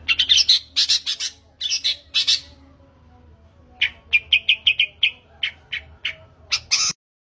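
Long-tailed shrike (cendet) singing. It gives harsh, scratchy calls at first, then a fast run of short notes, about seven a second, a little under four seconds in, followed by spaced single notes. The song cuts off abruptly near the end.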